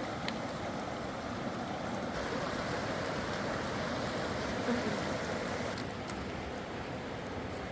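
Rushing river water, a steady noise.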